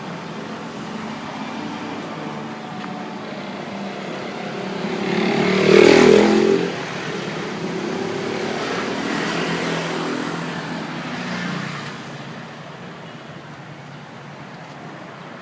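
Road traffic outdoors: a motor vehicle passes close by, rising to a loud peak about six seconds in and falling away, followed by a fainter second vehicle passing, then quieter traffic noise.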